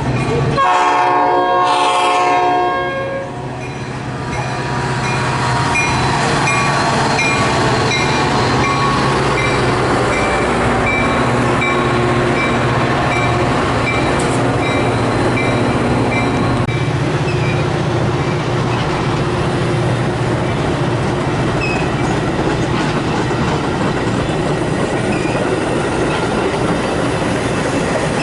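A train horn sounds in the first three seconds, then a train passes with a steady rumble and wheel clickety-clack. A bell dings evenly over it until about halfway through.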